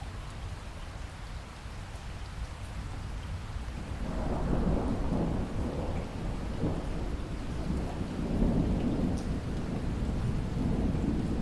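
Steady rain falling, with distant thunder rumbling in about four seconds in and rolling on in low waves.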